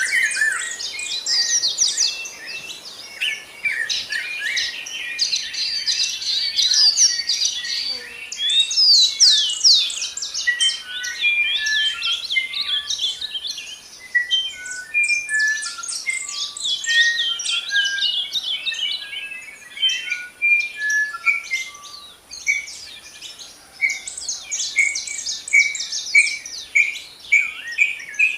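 Several songbirds singing and chirping at once, a dense chorus of quick high notes. In the middle, a run of short clear whistled notes steps down in pitch, and near the end one bird repeats a note evenly.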